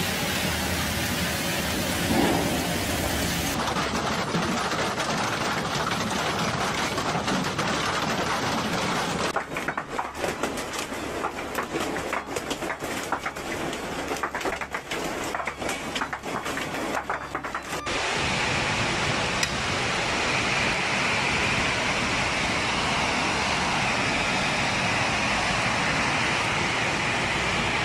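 Heavy rain pouring down. In the middle stretch, hailstones hit a tarpaulin pool cover in many separate sharp hits, then it turns to an even, dense downpour.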